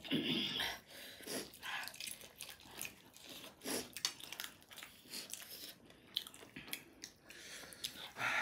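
Close-up eating: biting and chewing, with irregular wet clicks and crunchy smacks from the mouth.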